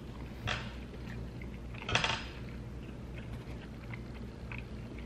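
Close-up chewing of a mouthful of s'mores donut over a steady low hum, with two short louder bursts of noise about half a second and two seconds in.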